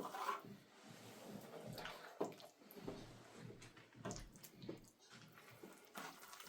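Faint, irregular wet splashing and scraping sounds, water being handled in uneven strokes with a few sharper knocks.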